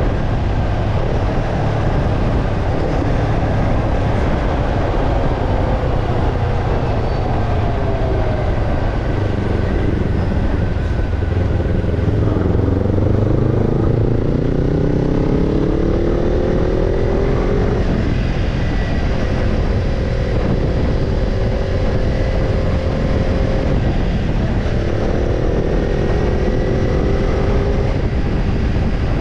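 Kawasaki Ninja 250's parallel-twin engine breathing through a BEET NASSERT Evolution Type II titanium slip-on muffler while being ridden. The exhaust note climbs and drops several times as the bike accelerates and changes gear, over a steady rush of road and wind noise.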